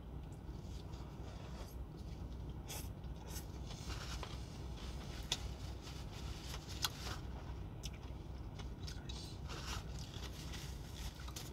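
Close-up chewing of a mouthful of shredded carrot salad: quiet wet mouth clicks and crunches, with two sharper clicks around five and seven seconds in, over a steady low hum.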